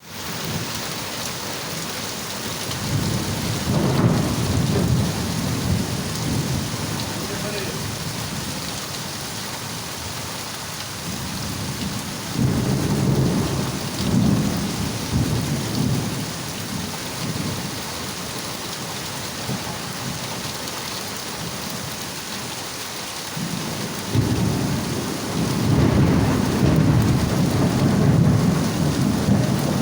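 Heavy rain pouring steadily, with thunder rolling three times in long low rumbles, about three seconds in, around twelve seconds and again near the end.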